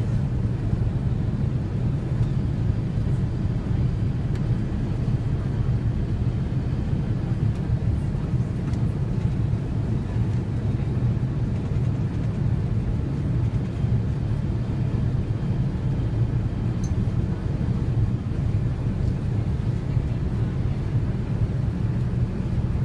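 Steady low rumble of an Airbus A380's engines and rushing air, heard inside the passenger cabin during takeoff.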